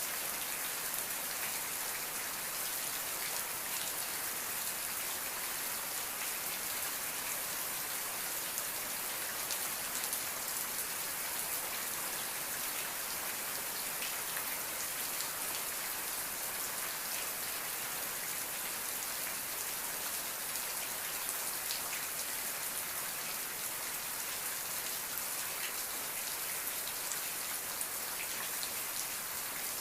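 Steady rain falling: an even hiss with many small drop ticks, unchanging in level.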